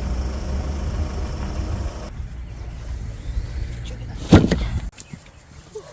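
A steady low engine-like rumble, with one loud thump about four seconds in; the rumble cuts off suddenly just before the end.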